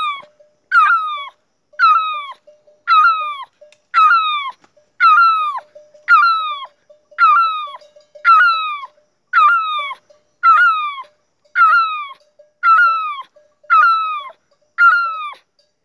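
A boy's vocal imitation of a great barbet (nyauli bird) call: a plaintive falling note repeated about once a second, fifteen times in a steady series.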